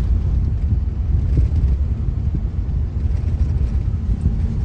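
Steady low rumble of a car driving slowly over a rough, unpaved road.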